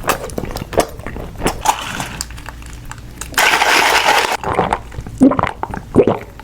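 Close-miked eating sounds: a run of small crisp clicks and crunches from biting and chewing, with one louder noisy burst lasting about a second, about three and a half seconds in.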